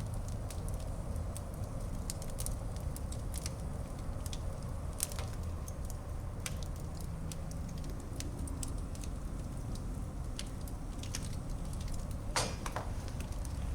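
Fire burning in a fireplace, crackling with scattered sharp pops over a steady low rush of flame. One louder pop comes near the end.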